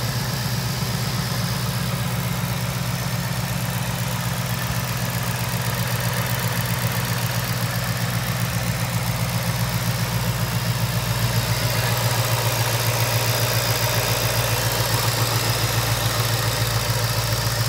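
Supercharged 5.0 L Coyote V8 of a 2019 Mustang GT idling steadily with its newly installed Ford Performance supercharger, running really good after the install.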